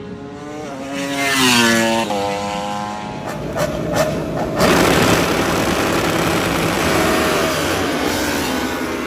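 Superbike racing motorcycle engine: the revs fall in a few steps, a few sharp pops follow, then a loud rush of engine noise as a bike passes close.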